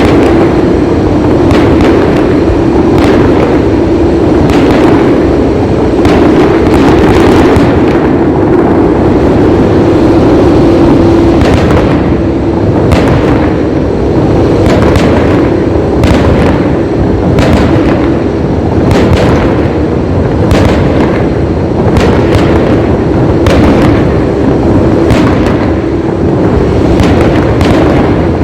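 Fireworks show going off in a dense, continuous barrage of bangs and crackles, with sharp reports about every half second over a steady drone. It is very loud, close to the top of the recording's range.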